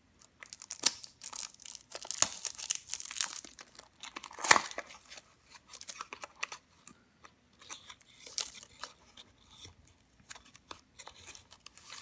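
Toy car packaging being opened by hand: irregular tearing, crinkling and light clicks of plastic and cardboard, with one sharp crack about four and a half seconds in.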